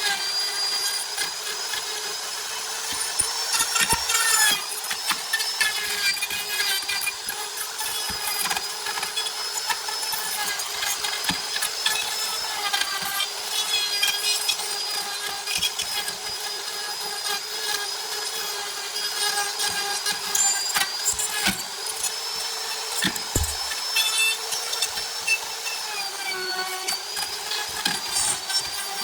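A wood lathe spins a wood-and-epoxy blank while a turning tool cuts it, giving a steady, slightly wavering high whine over scraping, with scattered clicks.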